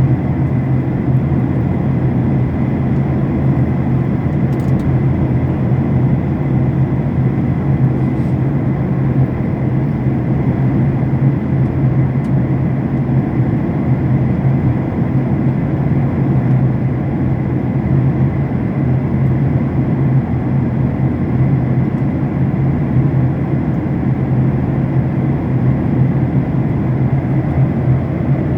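Steady rush and low drone of an airliner cabin in flight, engines and airflow running evenly without change.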